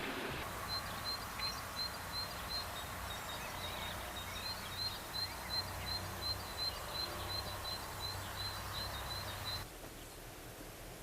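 A small bird calling a short high chirp over and over, about three times a second, against a faint outdoor background. Near the end it cuts off suddenly to a quieter background.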